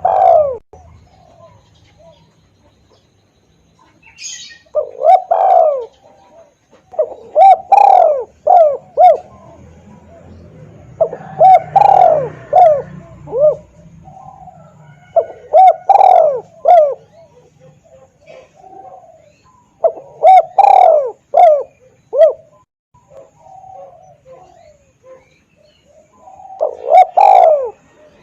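Spotted dove (tekukur) cooing loudly and clearly, a repeated lure call: phrases of several quick coo notes every three to five seconds, about six phrases in all. There is a brief high chirp about four seconds in.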